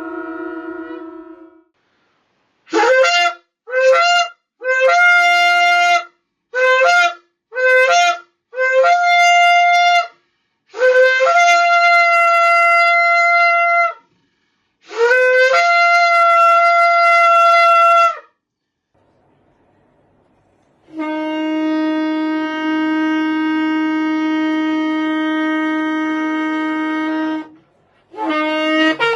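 Shofar blasts: a run of short notes, each opening with an upward slide in pitch, followed by two longer held blasts. After a pause, a lower-pitched shofar sounds one long steady note for about six seconds, and another blast begins near the end.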